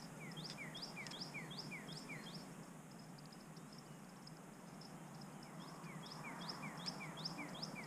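A songbird calling a fast series of short repeated notes, about three or four a second, in two runs: one in the first couple of seconds and another starting about five and a half seconds in. Faint steady outdoor background noise underneath.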